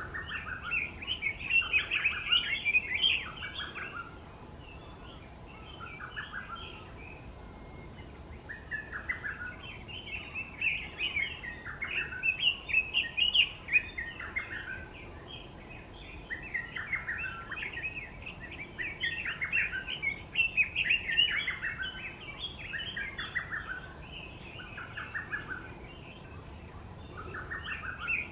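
A bird singing short, chattering phrases over and over, each under a second long, with brief gaps between them.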